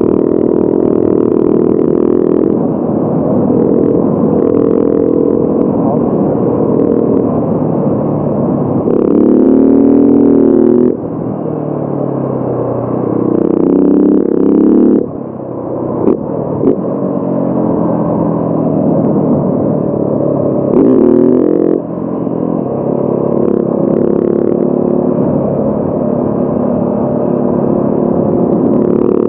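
Motorcycle engine under way, pulling through the gears. The revs climb several times and drop sharply at each shift, about ten, fifteen and twenty-two seconds in.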